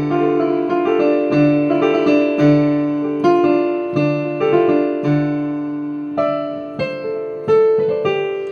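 Keyboard playing an instrumental passage in piano sound: chords struck about once or twice a second over a low bass note, each chord dying away before the next.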